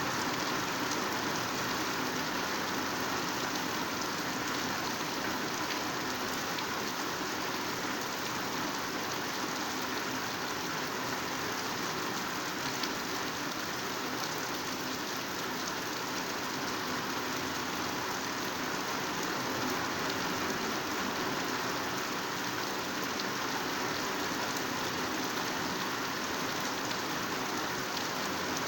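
Heavy rain pouring steadily onto foliage, a dense even hiss of drops with faint scattered patters.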